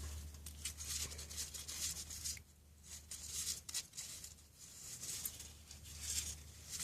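Faint handling noises over a low steady hum: scattered light clicks and rustles of tools and bearing parts being worked by hand while the axle nut's tightness is adjusted.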